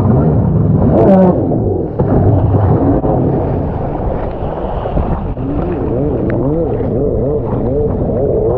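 Yamaha SuperJet stand-up jet ski engine running under throttle in the surf, its pitch rising and falling over and over, about once a second in the second half.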